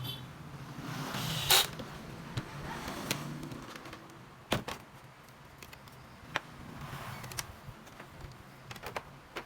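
A few scattered sharp clicks and taps over a low steady hum, the loudest click about one and a half seconds in.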